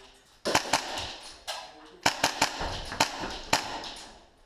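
Airsoft gunfire in four short bursts of sharp shots, each shot followed by a brief echo.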